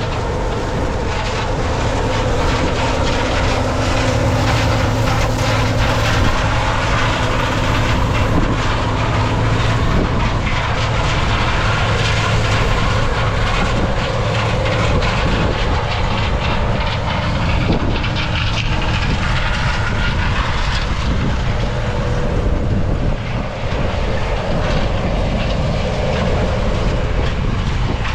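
1977 Gleaner L2 combine running, its engine and threshing machinery making a steady loud drone with a noisy, rattling top.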